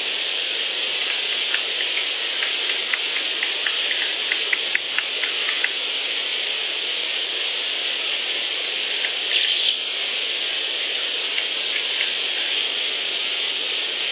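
Field recording over steady recorder hiss: a run of short, sharp clicks that come faster in the middle, heard as a ratchet-like clicking, like a big dial being turned; the recordist attributes it to Sasquatch. A brief rustle of noise follows about nine seconds in.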